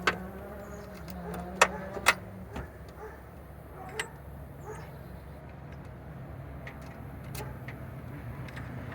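A go-kart's small engine running steadily and growing louder near the end, its pitch sliding slightly. Several sharp clinks cut across it, the two loudest about one and a half and two seconds in.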